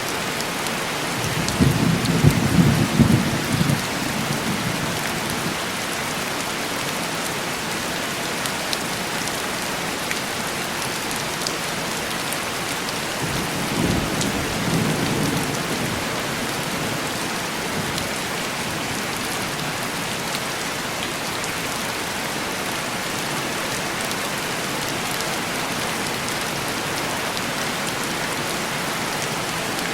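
Heavy rain falling steadily on window glass, with two low rolls of distant thunder: a louder one about two seconds in lasting a couple of seconds, and a fainter one about halfway through.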